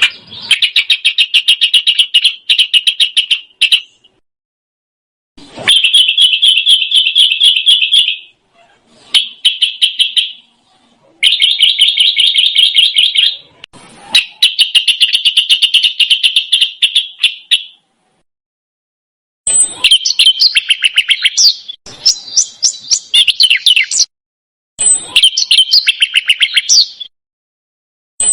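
A small songbird singing fast, dense rolling trills in phrases of two to four seconds with short silent gaps between them. About two-thirds of the way in, the phrases turn into more varied warbles with quick up-and-down sweeps.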